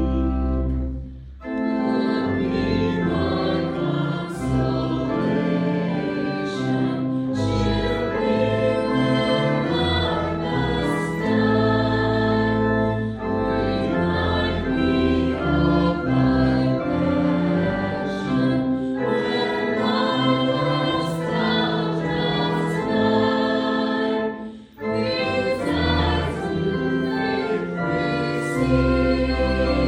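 A hymn sung by many voices with organ accompaniment, the organ holding deep sustained bass notes. The music pauses briefly twice, about a second in and again about five seconds before the end, between phrases.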